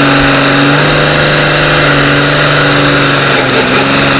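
The 5800 cc engine of a tractor-pulling tractor running loud at steady, high revs, its pitch holding level.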